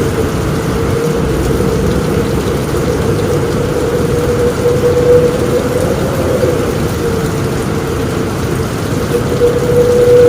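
Heavy rain on a roof with strong wind: a steady, dense low rumbling wash, with a wavering tone running through it.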